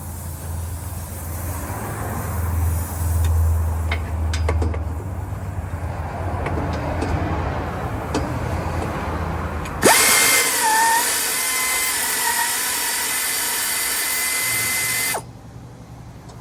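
Air-powered impact gun running for about five seconds on an exhaust bolt: a loud, steady whine that starts suddenly about ten seconds in and cuts off sharply. Before it, a low hum with a few scattered tool clicks.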